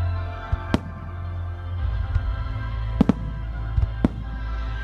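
Aerial firework shells bursting with sharp bangs: one under a second in, a close pair about three seconds in and another about four seconds in. Under them, music with a sustained low drone plays for the display.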